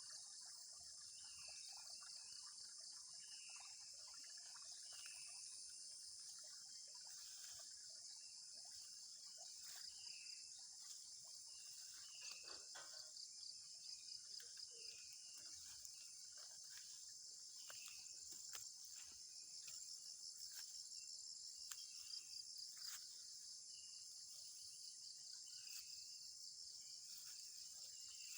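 Insect chorus: a dense, steady, high trilling. Short chirping calls repeat through the first few seconds, and faint ticks and clicks are scattered throughout.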